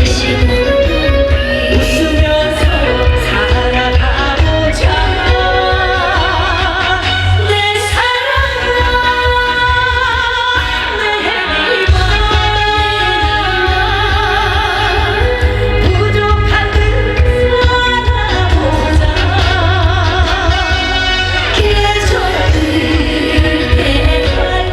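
A singer performing a Korean pop song on stage, the voice wavering with vibrato over a steady heavy bass beat. The beat drops out for a few seconds about eight seconds in, then comes back.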